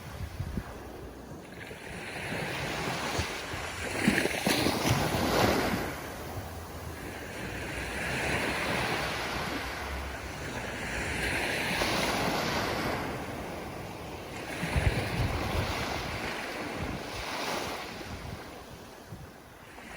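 Ocean surf breaking and washing in, swelling and ebbing in slow surges, with louder breaks about four seconds in and again about fifteen seconds in.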